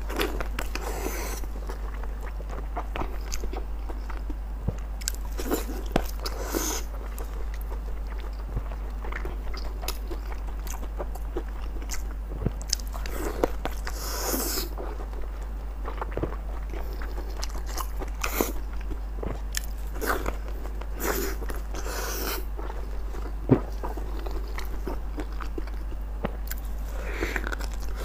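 A woman biting and chewing a thick blood sausage close to the microphone: irregular mouth clicks and smacks. A steady low hum sits underneath.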